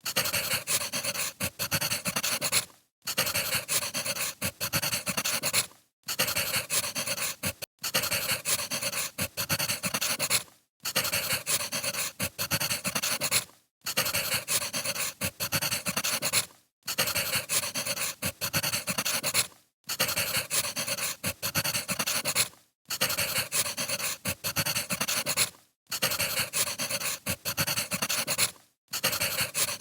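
Crackling wood fire, a dense run of small snaps and pops. It comes from a short recording looped over and over, with a brief dropout about every three seconds.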